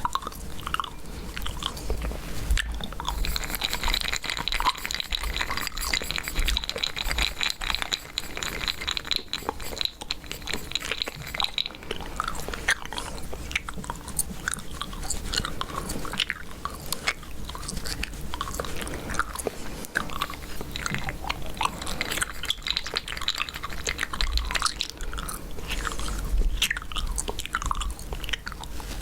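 Chewing gum, chewed with mouth open close to the microphone: a steady run of wet clicks and smacks. From about three to twelve seconds in there is a denser stretch of rapid fine ticking.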